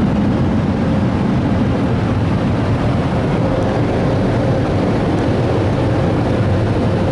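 Car wash drive-through blower dryers running, a loud steady roar of rushing air heard from inside the car's cabin.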